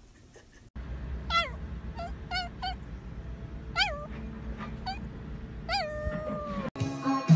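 A cat meowing about six times in short rising-and-falling calls, the last one longer with a drawn-out falling tail, over a low steady hum.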